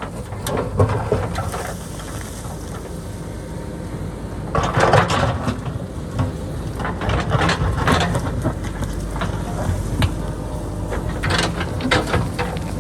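JCB backhoe loader's diesel engine running steadily under load, with irregular scraping and clattering of rock and soil as the bucket digs into the hillside. The loudest burst of clatter comes about five seconds in.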